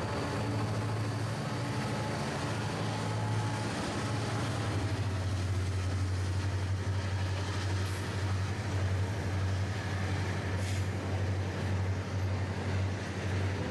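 Diesel-electric freight locomotive running, a steady low hum under an even rumble.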